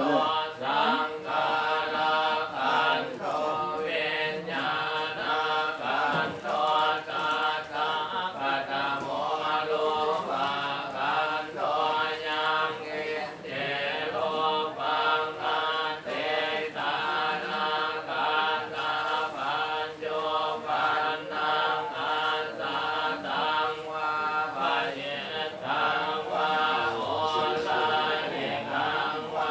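Buddhist chanting: several voices reciting together in a steady, continuous chant, with one held tone sounding under the syllables.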